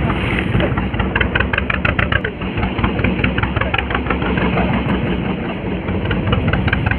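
Fishing boat's engine running steadily. A quick run of short, sharp high sounds comes through it from about one to two seconds in and again near the end.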